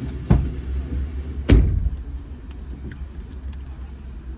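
Two dull thumps about a second apart, the second louder, over a steady low rumble, followed by a few faint light clicks.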